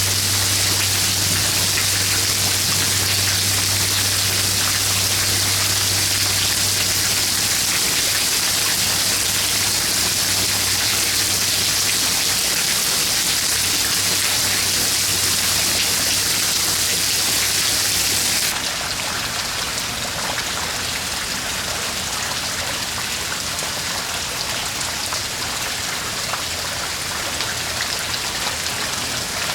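Heavy storm downpour pattering steadily and densely on surfaces, with a low steady hum underneath. About two-thirds of the way through, the sound changes abruptly and gets a little quieter.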